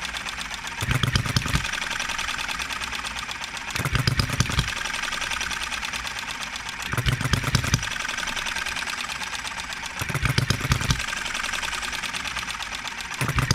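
6cc Enjomor model hit-and-miss engine running on its governor: a short cluster of firing strokes about every three seconds, with fast ticking as it coasts between them. It fires several strokes per hit rather than the one or two wanted, with an occasional hiccup.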